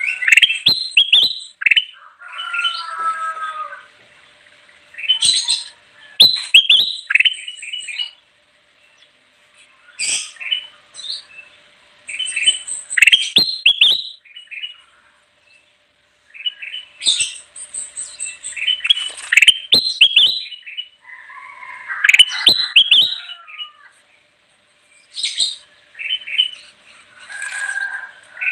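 Kutilang emas (ruby-throated bulbul) singing vigorously: repeated bouts of quick, chirping, sliding phrases, each a second or two long, separated by short pauses.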